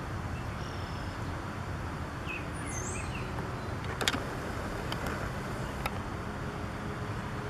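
Steady outdoor background rumble, with a few faint bird chirps about one to three seconds in and two sharp clicks near the middle.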